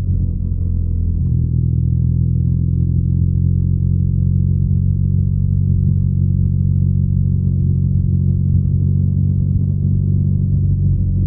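BMW R nineT's 1170 cc air/oil-cooled boxer twin running at steady revs, its low exhaust note holding even.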